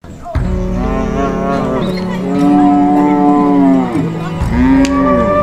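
Cows mooing: three long moos one after another, the later ones rising and then falling in pitch.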